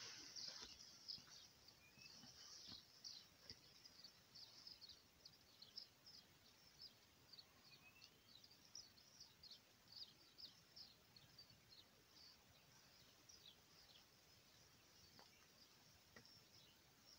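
Faint chirping of small birds: many short, high calls several times a second throughout, with a couple of brief rising whistles.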